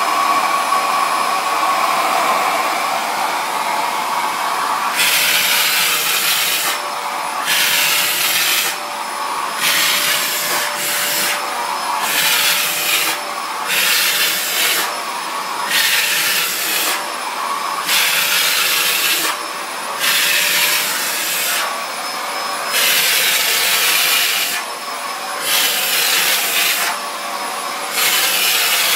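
Vacuum cleaner running with a steady motor whine as its nozzle is worked over a cat's fur. From about five seconds in, the suction hiss swells and drops again every second or two.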